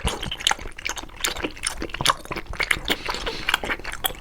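Close-miked wet chewing of a soft, jelly-like food: a dense, irregular run of small squishy, sticky clicks.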